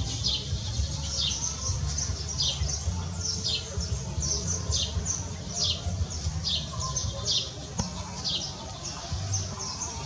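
A small bird giving a steady run of short, high chirps, each sliding downward, about one or two a second. A low rumble runs underneath.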